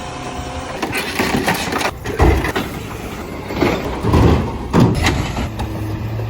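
Garbage truck engine running, with several heavy thumps and clanks at intervals.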